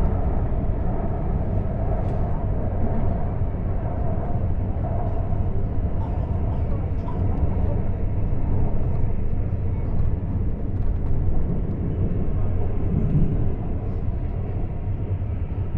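Inside a CAF AS-14 metro car running between stations: a steady low rumble of wheels and traction equipment, with a faint mid-pitched hum that fades after the first few seconds.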